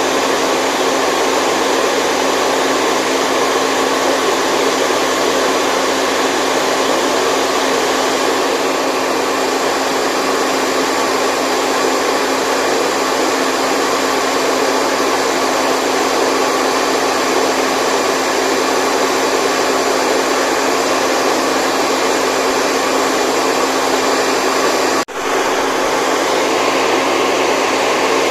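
Steady white noise for lulling a baby to sleep, a hair-dryer-like rush, with a split-second dip about 25 seconds in.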